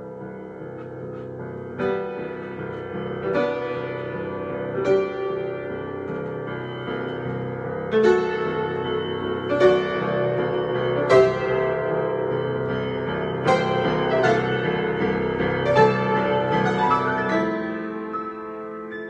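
Solo piano improvisation: chords and single notes struck and left to ring, growing louder through the middle and softening near the end.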